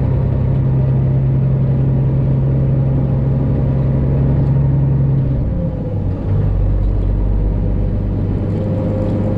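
Diesel engine of a Freightliner Classic XL semi truck running as it drives slowly, heard from inside the cab as a steady hum. Just past the halfway point the engine note drops to a lower pitch and holds there, as the engine speed comes down.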